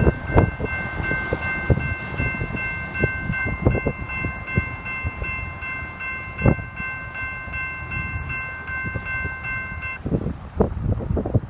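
Freight train rolling past, rumbling, with irregular clanks and knocks of wheels over the rail joints. A steady chord of several high tones holds over the train noise and cuts off abruptly about ten seconds in.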